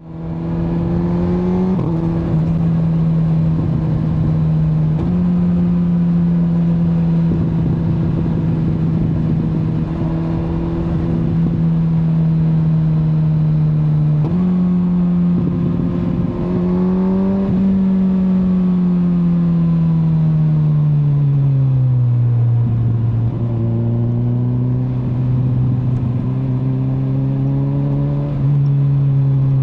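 Kawasaki Z900's inline-four engine running on the road, its pitch holding level for stretches and jumping at several gear changes. About two-thirds of the way through the revs fall steadily as the bike slows, then build again.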